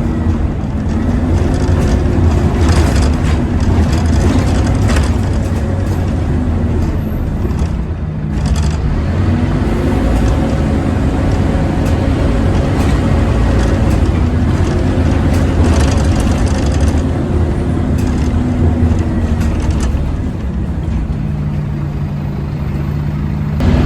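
Scania OmniCity N230UD double-decker bus engine running under way, loud, with the whining 'hoover' sound: its pitch climbs and drops back several times as the bus pulls away and changes gear, easing off about eight seconds in and settling lower near the end.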